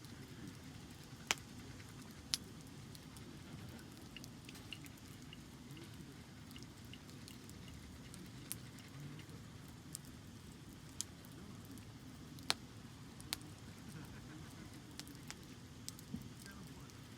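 Wood fire crackling, with sharp pops at irregular intervals, a few of them louder, over a faint low background.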